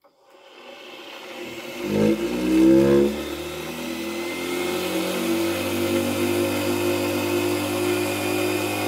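Vacuum cleaner motor starting up on a high-frequency (about 77 kHz) supply: it begins from silence, gathers speed with a rising whine and a louder surge two to three seconds in, then runs on steadily.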